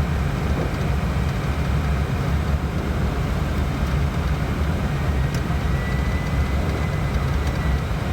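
Steady flight-deck noise of an airliner in flight on approach: a constant low rumble of airflow and engines. A faint thin high tone sounds for about two seconds in the second half.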